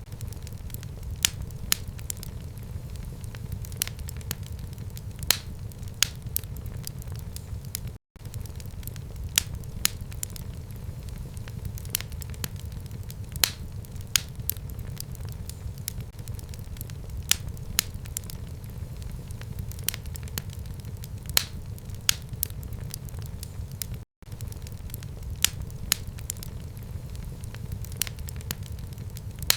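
Fire burning in a home fireplace: a steady low rumble of flames with frequent sharp crackles and pops at irregular intervals. The sound cuts out for an instant twice.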